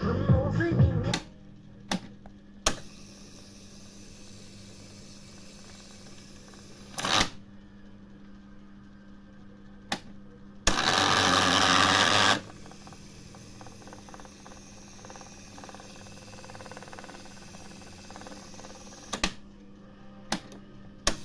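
Romantika 222-S tape recorder being operated: music from it cuts off about a second in, then sharp clicks of its control keys and mechanism over a steady low hum, and a loud rushing noise for just under two seconds about halfway through.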